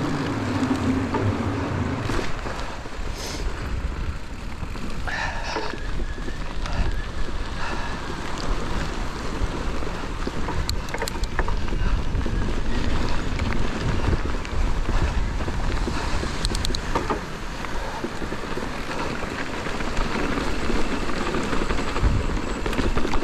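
Wind buffeting an action camera's microphone over the steady rumble and rattle of a mountain bike riding down a trail, with scattered clicks and knocks.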